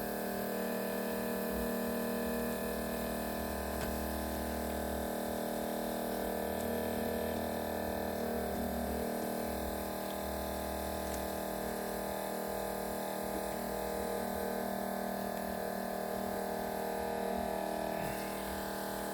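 Steady electrical hum and buzz made of several level tones, with a deeper low hum that comes and goes every few seconds.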